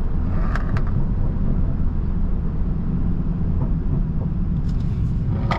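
Engine and road noise of a stage-2-tuned BMW 330i's turbocharged four-cylinder, heard from inside the car: a steady low rumble while cruising slowly.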